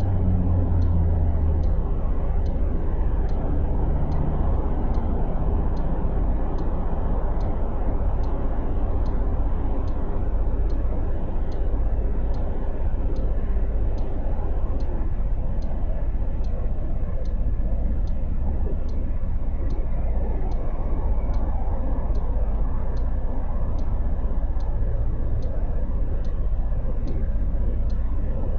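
Motorcycle running through city traffic, with a steady low rumble of engine and road noise. The engine note drops in steps over the first few seconds, then settles into the general rumble.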